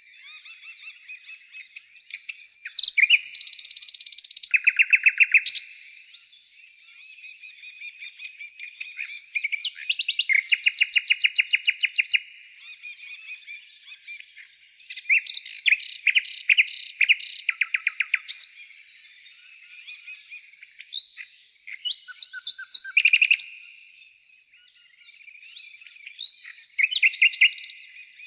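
Birds singing: repeated high chirps and fast trills that come in bursts of a second or two, with short pauses between.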